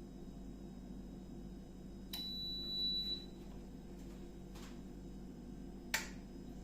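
A steady low hum with a click about two seconds in, followed by a high electronic beep about a second long; a fainter click follows, then a sharp click near the end.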